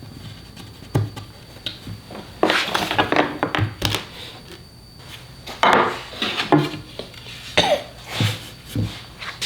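Pieces of wood and hand tools being handled on a workbench: scattered knocks, clunks and short scraping clatters at irregular moments, with no power tool running.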